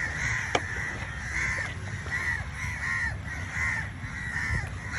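Crow cawing repeatedly, a steady series of short arched calls, with a sharp click about half a second in.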